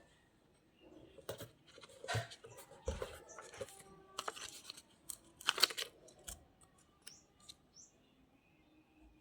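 Paper and cardstock being handled while a journal page is decorated: rustling, scraping and sharp clicks in quick succession for several seconds, then a few lone ticks and short high chirps.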